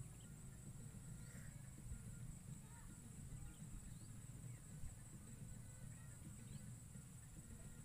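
Faint open-air ambience: scattered short bird chirps over a steady high hiss and a low rumble.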